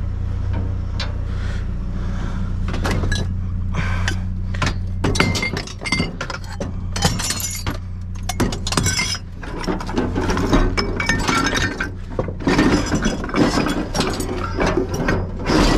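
Hard junk clattering and clinking as it is shifted around in a dumpster, a dense run of knocks and clinks that picks up about three seconds in. A steady low hum, likely the idling truck, sits under the first few seconds.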